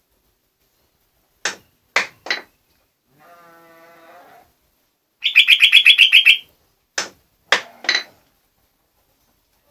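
A jogjog bird calling loudly. It gives three sharp short calls, then a rapid chattering run of about ten notes lasting just over a second, then three more sharp calls.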